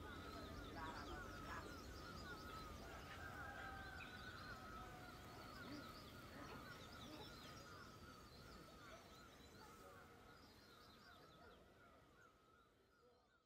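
Faint birdsong: many small birds chirping over and over, fading out toward the end.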